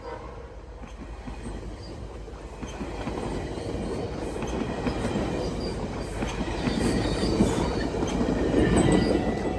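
GO Transit commuter train approaching and passing, its rumble and wheel clatter on the rails growing steadily louder to a peak near the end.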